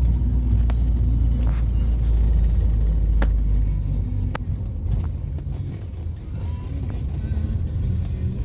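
Car engine and road rumble heard from inside the moving car's cabin, heavy and low for the first few seconds and easing about halfway through, with a few light clicks.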